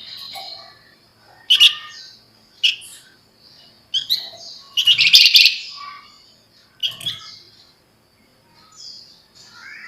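Javan fulvetta (flamboyan) calling: short sharp chirps spaced a second or so apart and a dense, rapid chattering trill about five seconds in, the loudest part.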